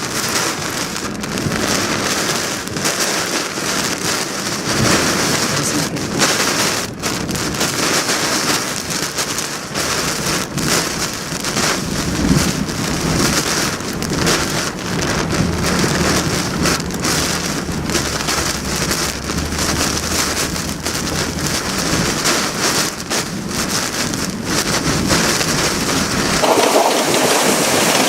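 Heavy hurricane rain pouring down steadily in Hurricane Florence. A low steady hum runs beneath it through the middle of the stretch.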